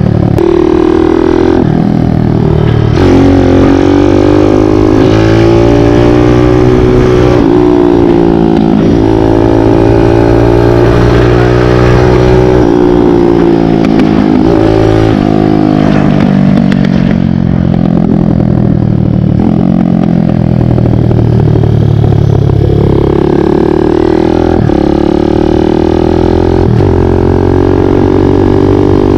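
Kawasaki KLX dirt bike with a 178 cc big-bore kit, its single-cylinder four-stroke engine running loud under way. The engine note climbs and drops back several times as the rider accelerates and eases off.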